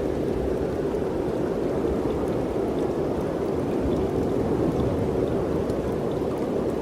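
Steady mountain wind: a constant, even rush with a low rumble beneath it and no gusts standing out.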